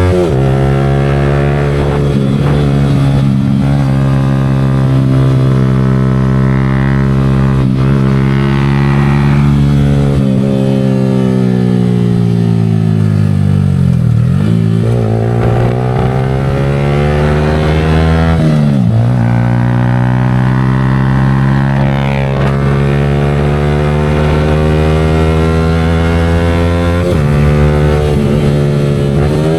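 Yamaha R15 V4's single-cylinder engine running through an aftermarket Leo Vince exhaust, at steady revs for most of the time; twice, around the middle, the revs fall away and climb back up.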